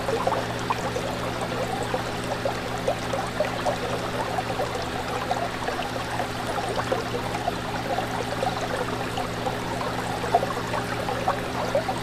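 Fish tank water bubbling and trickling steadily, with many small quick bubble pops over a steady low hum.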